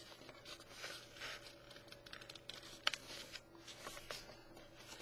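Faint rustling and crinkling of a sheet of paper being folded and creased by hand, with a few short, crisp ticks, the clearest about three seconds in.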